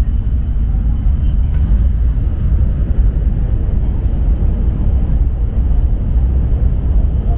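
Steady low rumble of a train running along the track, heard inside the passenger car.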